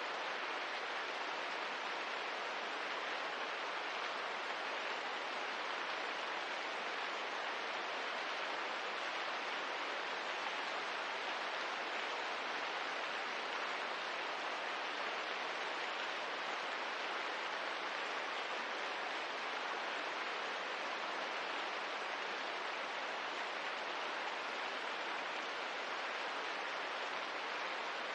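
Steady rain ambience: an even, unbroken hiss with no distinct drops or fire crackles standing out.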